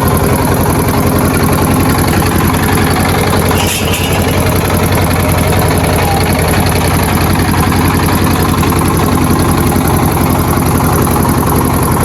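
Chinese DF 1110 20 HP single-cylinder diesel engine running steadily with a rapid, even firing beat. The engine is nearly new, and its running sound is just like new, with no change in sound yet.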